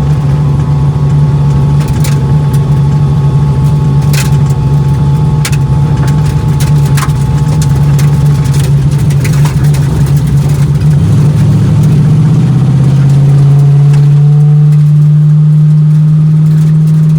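Twin-turbo LS 5.3 V8 in a Foxbody Mustang running steadily at low speed, with scattered sharp clicks in the first half. Its note settles into a cleaner, steadier tone about twelve seconds in.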